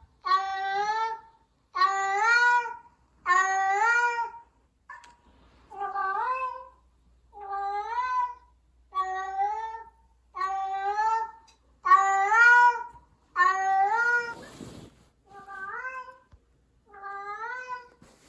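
A cat meowing over and over, about a dozen calls roughly a second and a half apart, each one rising in pitch. A short rustling noise comes about three quarters of the way through.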